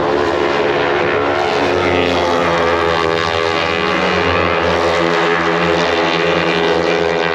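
Several racing superbike engines at high revs, their notes overlapping and sliding up and down in pitch.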